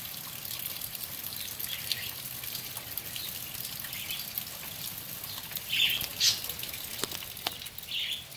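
Steady rain falling on a tent and truck, with occasional drips, and a bird chirping about three times in the second half.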